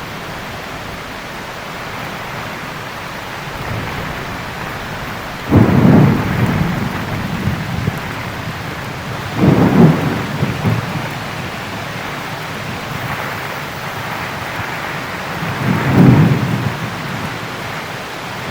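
Steady heavy rain with three cracks of thunder, each a sudden loud, deep burst that rumbles away over a second or two, about four seconds apart and again six seconds later.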